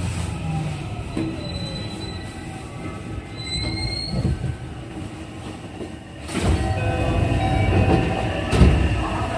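JR West 207 series commuter train heard from inside the car as it runs, its traction motor whine falling in pitch over the first two seconds as the train slows. A high, thin wheel squeal rises around the middle, and the rumble suddenly gets louder about six seconds in.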